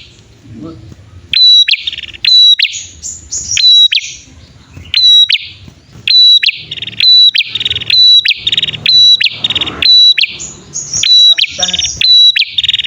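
Prenjak birds, male and female, calling back and forth in quick bouts of sharp, high chirps and rapid trills: a lure call recording used to draw wild prenjak and get caged birds singing.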